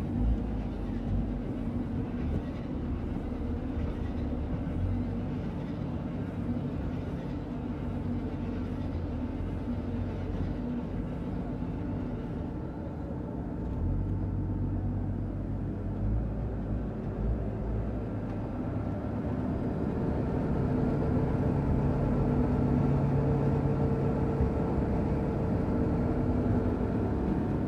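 Silage baling and packing machine running with maize silage, a steady mechanical drone with a few held tones. It grows louder about two-thirds of the way through.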